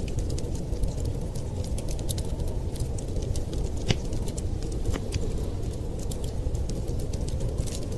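Wood fire crackling, with irregular sharp pops and snaps, a louder pop about four seconds in, over a steady low rumble.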